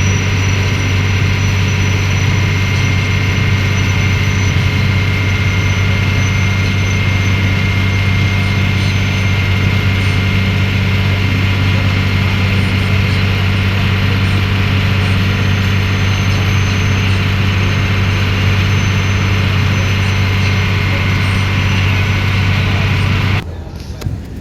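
Ferry boat's engine running steadily with a loud, even low drone and a thin steady whine above it; it drops off abruptly about a second before the end.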